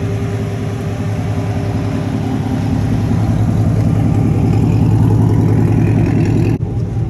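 Truck engine running steadily, growing louder through the middle, with a brief sharp break near the end.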